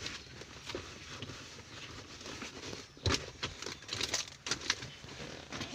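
A cloth rubbing as a surface is wiped down, with a few sharp clicks and knocks from handling, about three seconds in and again about four seconds in.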